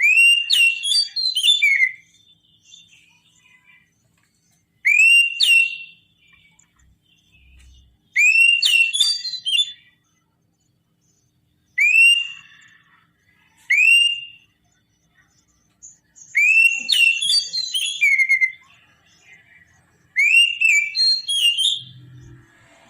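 Oriental magpie-robin (kacer) singing: seven loud whistled song phrases with short pauses between them, each opening with a rising whistle and running into a quick string of sharper, higher notes.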